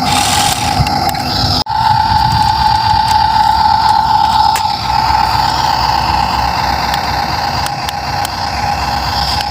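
Small electric motors of a Huina 1550 radio-controlled toy excavator whining steadily at a high, even pitch, with a brief break about two seconds in.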